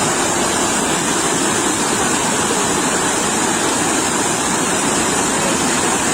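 Sea waves washing onto the shore: a steady, unbroken rushing of surf.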